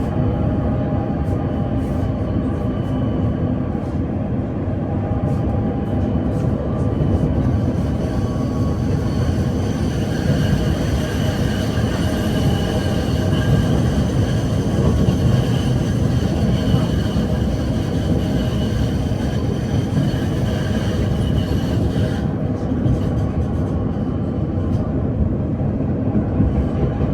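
PKTS 71-931M Vityaz-M tram running between stops, heard from inside the car: a steady rumble of running gear, with a thin high whine that comes in about ten seconds in and fades out a little after twenty seconds.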